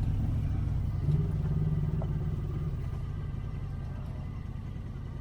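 Side-by-side UTV engine running with a low rumble. The engine note briefly rises about a second in, then eases off and gets quieter as the machine slows.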